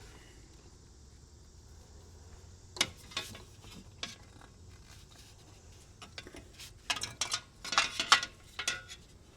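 Light metallic clicks and clinks of hand tools and bike hardware being handled. A few separate knocks come about three seconds in, then a busier run of clinks and rattles near the end.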